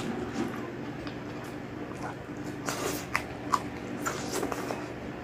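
Close-up eating sounds: chewing and wet lip-smacking as a leafy green stalk and stewed meat are eaten by hand, with a few sharp mouth clicks about halfway through and again near the end. A steady low hum lies underneath.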